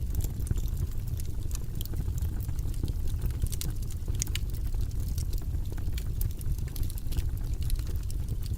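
Wood fire burning in a fireplace, a low steady rumble of flames with frequent sharp crackles and pops of burning logs.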